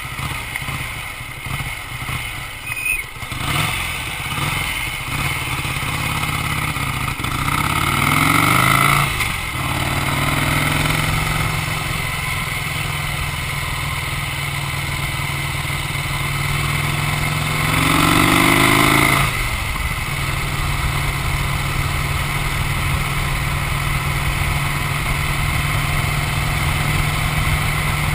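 Vincent 998 cc V-twin motorcycle engine running unevenly at low revs. It then accelerates twice, its pitch rising about eight and eighteen seconds in and dropping sharply at each gear change, and settles into a steady cruising note.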